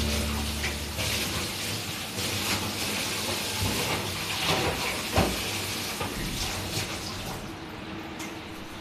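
Tap water running into a sink, with a few knocks of items being handled in it; the rush of water drops away near the end as the flow is cut.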